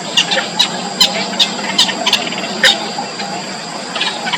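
Four-day-old nestlings giving short, high-pitched begging squeaks, about seven in the first three seconds and a few more near the end, over a steady background hiss and hum.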